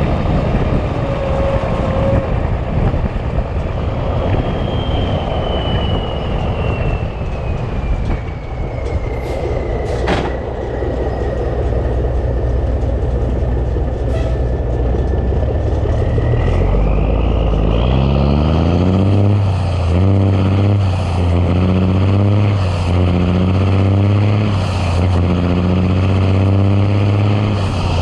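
Big Cam Cummins diesel in a 1986 Ford LT9000 tractor, first running steadily under road rumble with a high whistle slowly falling in pitch. About two-thirds of the way in, the engine pulls hard and revs up in steps through several quick gear changes, its pitch climbing and dropping back with each shift.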